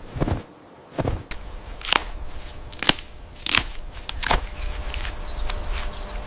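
Footsteps crunching over dry ground: soft thuds, then about five sharp crackling crunches, as of dry leaves or twigs breaking underfoot.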